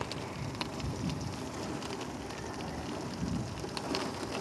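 Heavy rain falling steadily on hard surfaces, with scattered drops ticking close by.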